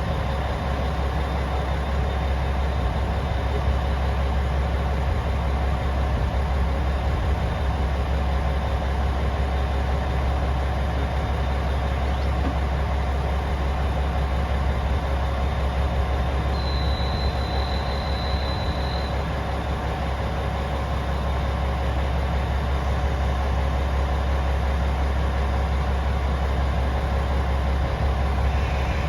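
KiHa 47 diesel railcar's engine idling with a steady deep drone. A brief high steady tone sounds about seventeen seconds in.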